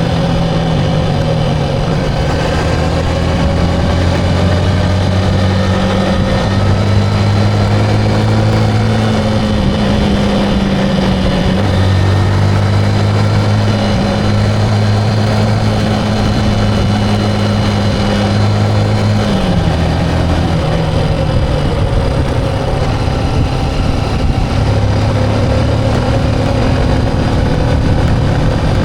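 Motorcycle engine running steadily on the road, its note shifting a few times with speed, over constant wind and road noise.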